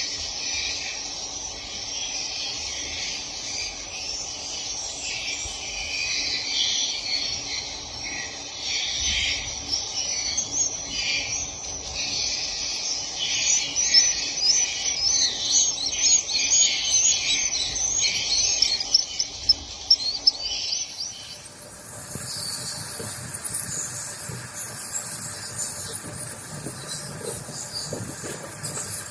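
Many swiftlets chirping densely and without pause, a high twittering chatter. About 21 seconds in it changes abruptly to a higher, thinner chirping.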